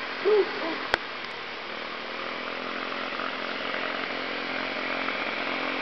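Mini bike's small engine running steadily, slowly growing louder, with one sharp click about a second in.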